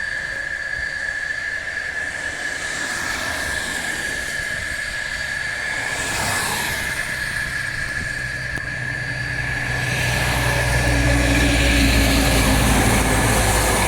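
A steady, high-pitched drone of insects from the woods. About ten seconds in, a vehicle engine's low rumble builds and grows louder.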